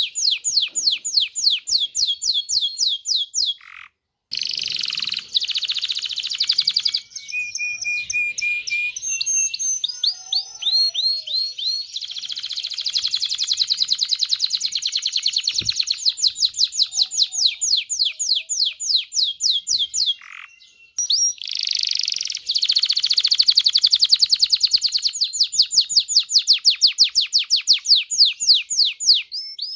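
Domestic canary singing, a male's song of fast rapid-fire trills and rolls of repeated notes. The song breaks off briefly twice and starts again.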